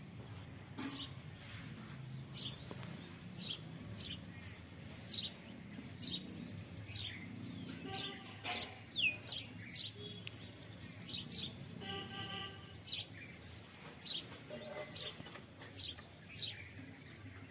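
A mixed flock of house sparrows and mynas chirping at a feeding spot: short, sharp, high chirps come irregularly, about one or two a second. About twelve seconds in there is a brief, fuller call.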